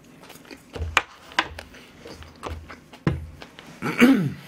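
Close-miked chewing: a man eating with his mouth full, wet mouth clicks and smacks with a few dull low thumps. Near the end a short vocal sound falling in pitch.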